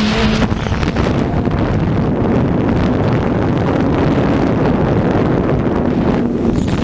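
Racing motorcycle engine running at speed, heavily masked by wind rushing over an onboard camera microphone, with a faint engine tone that drifts slightly in pitch.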